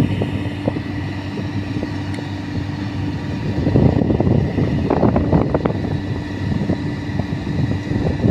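Sany 155 rotary drilling rig running with a steady engine drone and a constant high whine, with a cluster of knocks and rattles about four to six seconds in.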